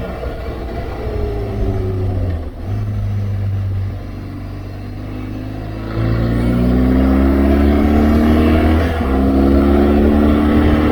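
BMW R1200GS Adventure's boxer-twin engine pulling hard, its pitch climbing under throttle with brief drops at gear changes about two and a half and nine seconds in. It gets louder from about six seconds in, over a steady rush of wind noise.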